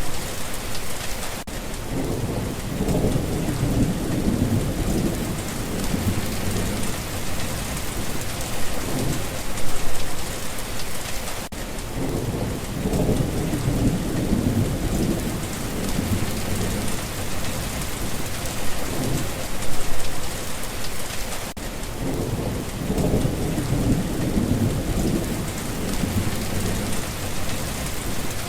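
Steady heavy rain hissing, with low rolling thunder rumbling underneath three times, about ten seconds apart.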